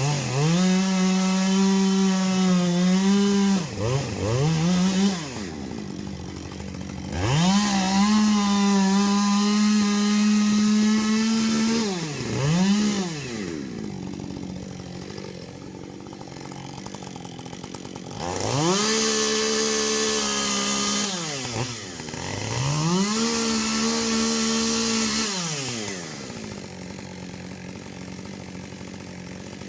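A two-stroke chainsaw is revved to full throttle and held there for several seconds at a time, four times, with a couple of quick blips in between. Each time it drops back to idle.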